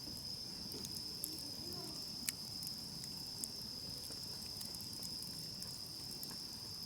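Insects trilling in one steady high continuous note, with the sharp crackles and pops of a wood campfire, the loudest pop a little over two seconds in.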